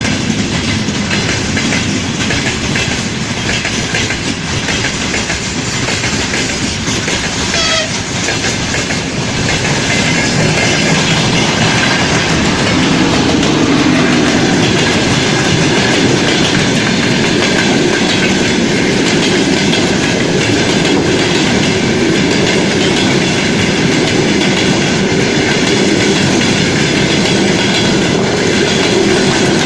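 Passenger train hauled by a TEP70BS diesel locomotive and an oncoming freight train running on the line: wheels clattering over the rail joints under a steady diesel drone. The noise rises about ten seconds in and stays loud.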